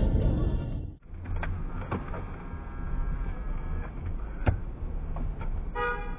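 Low engine and road rumble of a car on the move, with a few light knocks and one sharp knock about four and a half seconds in. A short car horn beep comes near the end.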